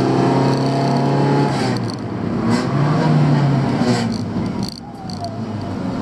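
Honda Civic's 1.3-litre twin-carburettor engine heard from inside the cabin, pulling with a steady note. The note drops away about two seconds in, comes back, then falls off near the end as the driver lifts.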